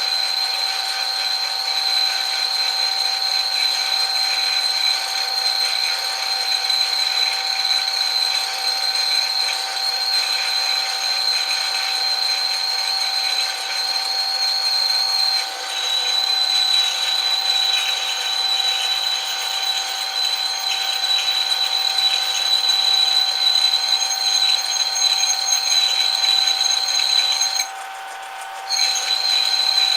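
Metal lathe running with a steady high-pitched whine. The pitch steps down slightly about halfway through, and the sound briefly drops for about a second near the end.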